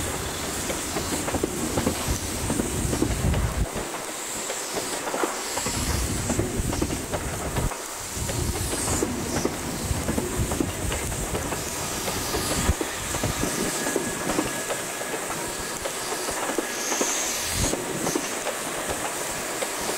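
Passenger coaches of a train rolling past close by, wheels clattering over the rail joints with a continuous rumble as the train pulls away.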